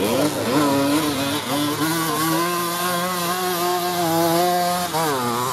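Small two-stroke off-road motorcycle engine revving hard under way. Its pitch climbs in the first half second and holds high and steady, then drops and climbs again near the end as the rider shifts or blips the throttle.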